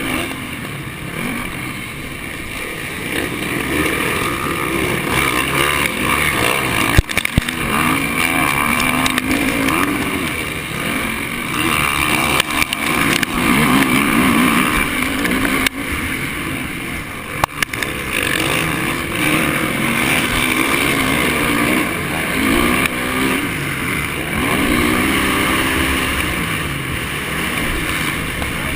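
Honda 450 four-stroke single-cylinder motocross bike racing, its engine revving up and falling back again and again through the gears and corners, with a rush of noise over it. A few sharp knocks come about a quarter and about halfway through.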